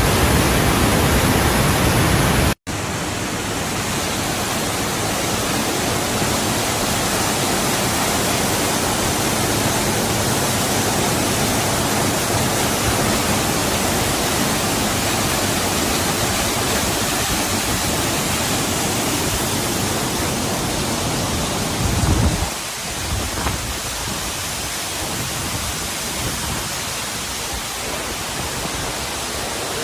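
Waterfall: a steady rush of falling water, cut off for an instant about two and a half seconds in.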